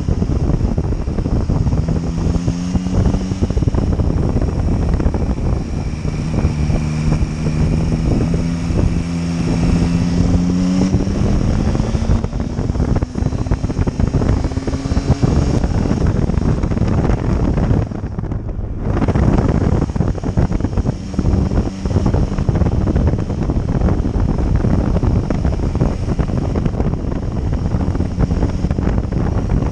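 Motorcycle underway, with heavy wind noise on the microphone over the engine; the engine note climbs in pitch between about six and sixteen seconds in, breaking off briefly a few times along the way.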